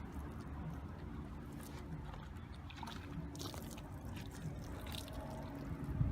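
Wet microfiber towel wiping and scrubbing a car's soapy paintwork, scattered rubbing and scraping noises over a steady low rumble, with a brief louder hiss a little past halfway and a thump at the very end.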